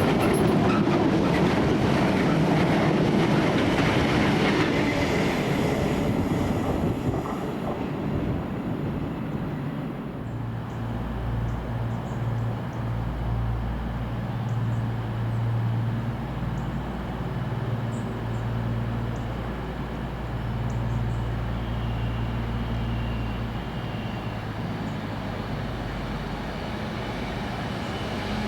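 A train running past on the line, with a loud rumble and rail clatter for the first several seconds that then drops away to a steady low engine drone which swells and eases.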